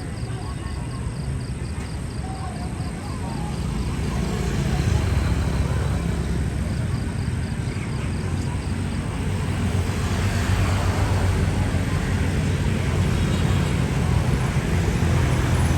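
Boeing 787-10 jet airliner's engines running with a steady rumble that grows louder about four seconds in and again after about ten seconds. A faint, fast, even ticking sits high above it in the first half.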